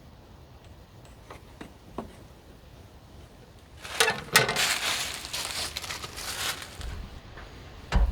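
Hands working a wooden 2x4 brace and clamp on a solar panel frame: a few light clicks, then, about halfway through, a few seconds of scraping and rustling with knocks in it.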